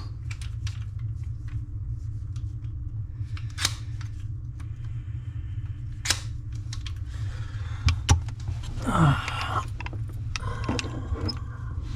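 Scattered light metallic clicks and taps of a basin wrench working on the faucet's mounting nut under the sink, with a short scrape about nine seconds in, over a steady low hum.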